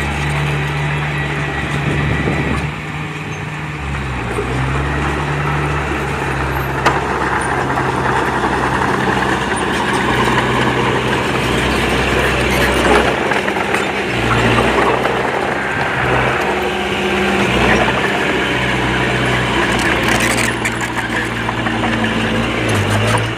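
Diesel engine of earthmoving machinery running continuously, its speed stepping up and down over the stretch.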